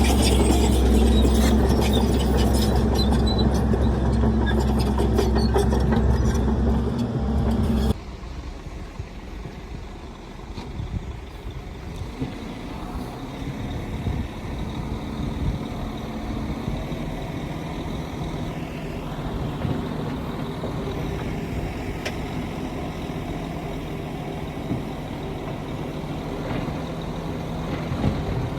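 Heavy diesel earthmoving machinery running: a loud engine with a deep steady drone that drops off abruptly about eight seconds in, followed by a quieter engine running on steadily.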